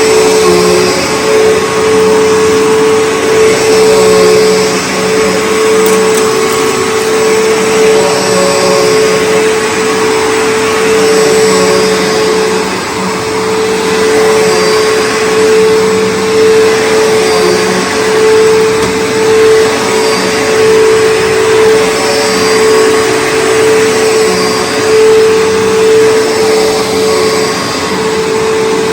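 Bissell PowerForce Bagged 3522 upright vacuum cleaner's motor running at full power, a loud steady whine with one strong held tone over the rush of air, swelling and dipping only slightly.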